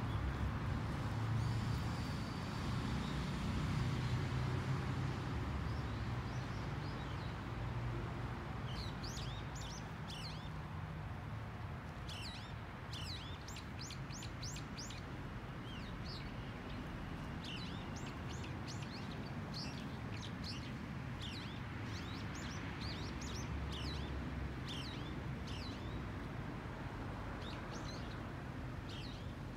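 Small birds chirping: many short, quick high chirps in clusters, starting about nine seconds in, over a steady low background rumble that is louder in the first several seconds.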